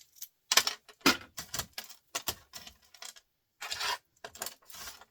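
Small scrap wire and copper pieces being handled and sorted by hand: irregular sharp clicks and short clattering rustles, with a brief pause a little past three seconds in.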